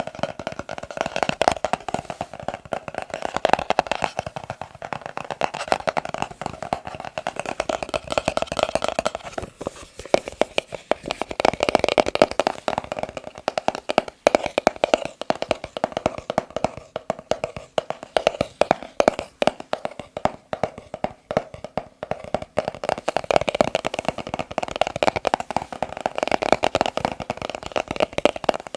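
Fingers tapping fast and continuously on a box, a dense run of quick taps with a hollow ring.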